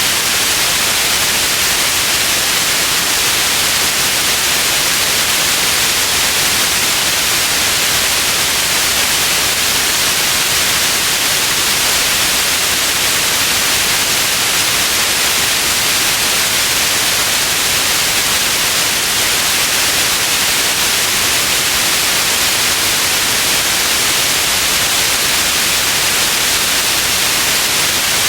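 Steady white noise, an even hiss weighted toward the high end, unchanging throughout.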